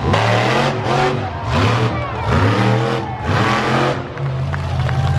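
Monster truck engine revving hard in repeated surges, its pitch sweeping up and falling back roughly once every second, then holding a steadier note near the end.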